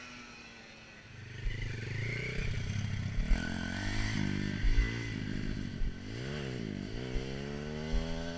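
Dirt bike engine running, growing louder about a second in. Around six seconds in its pitch dips sharply and climbs back again, as the throttle is let off and opened.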